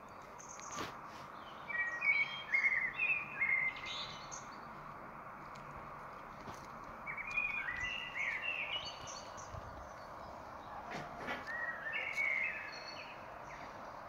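A songbird singing three short phrases, each a quick run of notes stepping down in pitch and lasting about two seconds, with pauses between, over a steady hiss of forest ambience.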